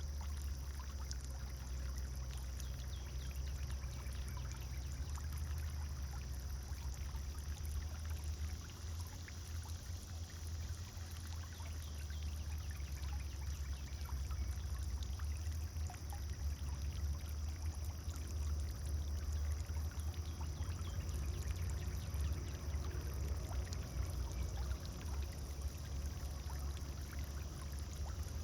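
A pond fountain's water splashing and pouring steadily, over a low rumble.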